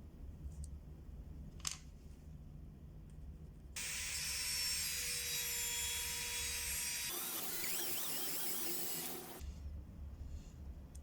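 A small high-speed power tool running in two stretches of a few seconds each, the second with a wavering pitch, each starting and stopping abruptly. A low hum sits under the quieter parts before and after.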